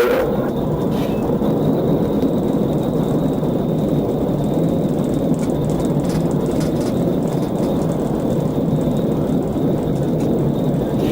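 Steady road noise and engine rumble of a moving car, even and unbroken.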